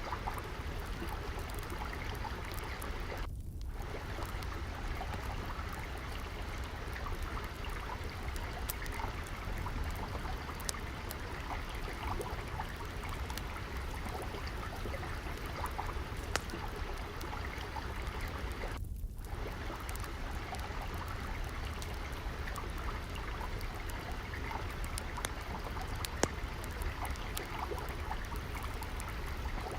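Steady flowing stream water with scattered faint crackles and pops from a wood fire. The water sound twice drops out briefly, once a few seconds in and again past the middle.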